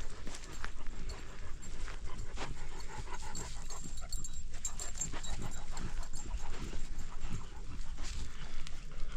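An animal panting, over a steady low rumble with scattered clicks.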